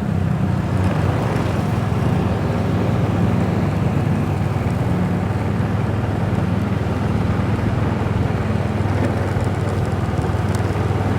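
Motorbike engine running at a steady riding speed, a continuous low drone with road noise and no changes in pace.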